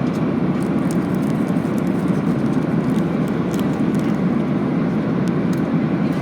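Steady low roar of the cabin noise inside a Boeing 737-800 at cruise: an even mix of airflow and engine noise, with no change in level.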